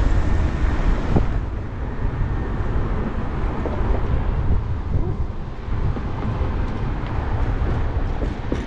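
Wind rumbling steadily on the microphone of a rider moving through traffic on a scooter, mixed with road and traffic noise.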